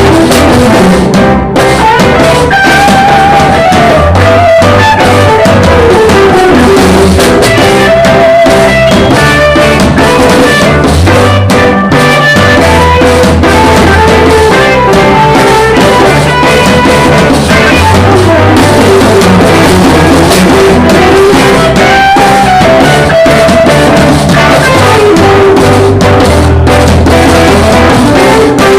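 Live band playing at a jam session, with electric guitar, a walking bass line and a drum kit under a lead line that bends up and down. The recording is very loud and badly distorted.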